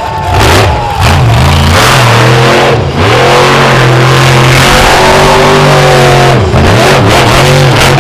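Monster truck's supercharged V8 revving hard, its pitch climbing and falling with the throttle, with brief lifts off the throttle about three seconds in and again about six and a half seconds in.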